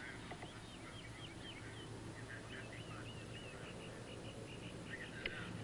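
Faint birdsong: a small bird's run of short, quick chirps. About five seconds in comes a single sharp click from the golf club striking the ball.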